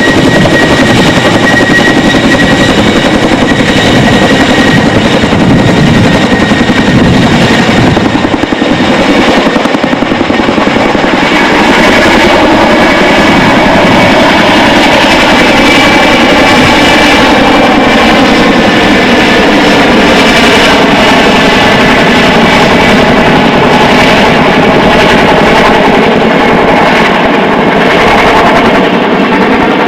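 CH-47 Chinook helicopter running, its tandem rotors beating rapidly under the steady whine of its twin turbine engines, loud throughout.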